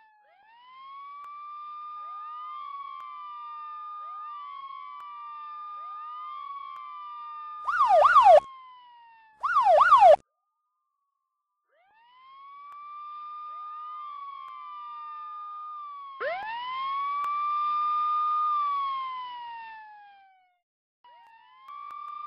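Electronic police siren in wail mode, slow overlapping sweeps that rise, hold and fall. About a third of the way in come two short, loud bursts of fast yelp, then a pause of about two seconds before the wailing resumes.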